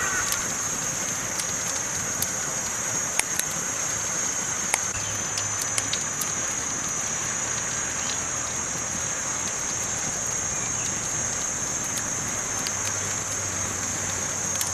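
Campfire burning: a steady hiss with scattered sharp pops and crackles from the burning wood.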